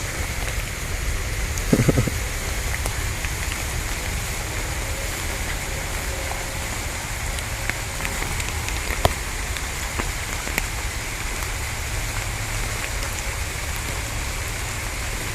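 Steady rain falling, an even hiss with scattered drops tapping close by, and a brief vocal sound about two seconds in.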